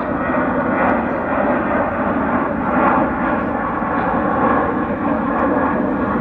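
Jet airliner taking off, its engines at takeoff thrust: a loud, steady rush of engine noise.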